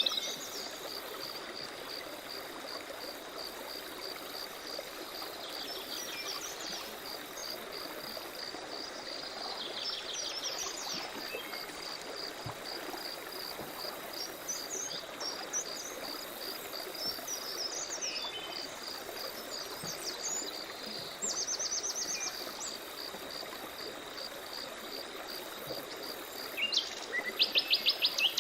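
Birds calling in short bursts of rapid high trills, loudest near the end, over a steady high insect chirping of about two pulses a second and the even rush of a stream.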